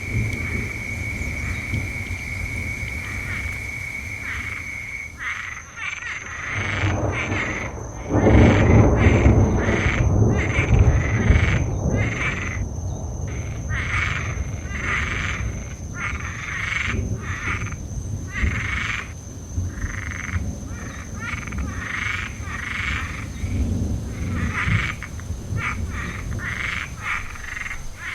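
A chorus of frogs croaking in quick repeated calls over a steady high-pitched whine, at a lake during a rainy night. About a third of the way in a low rumble of distant thunder swells for a few seconds and then fades, the loudest sound here.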